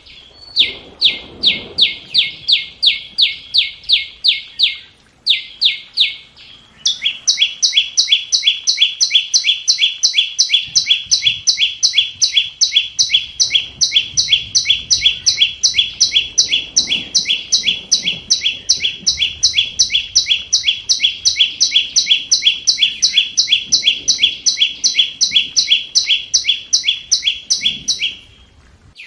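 Flowerpecker calling: a fast string of sharp, identical high notes, about four a second. After brief breaks around five and seven seconds in, it runs on slightly faster until just before the end.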